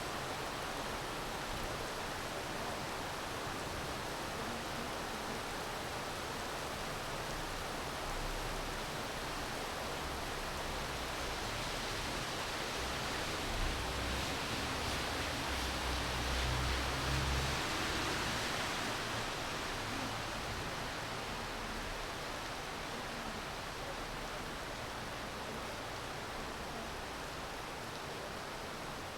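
Steady rain falling, an even hiss. About halfway through it swells a little, with a low rumble beneath it, then settles again.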